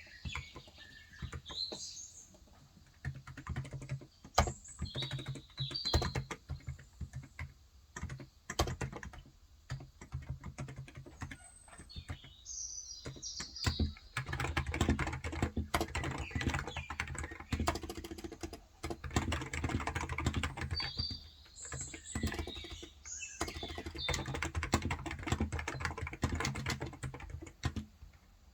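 Typing on a Cox Endeavor electrostatic-capacitive (non-contact) keyboard with 35 g switches. The keystrokes come in short scattered runs at first, then turn to fast, steady typing from about halfway. Short bird chirps sound now and then in the background.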